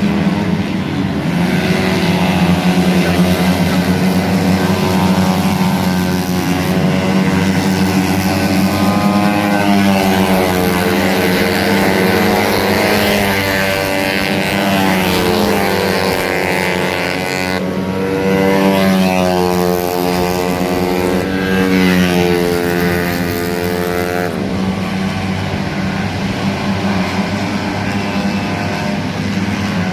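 A 150cc motorcycle engine running at a steady idle during a tune-up. Through the middle its speed rises and falls in slow, gentle waves, then it settles back to an even idle near the end.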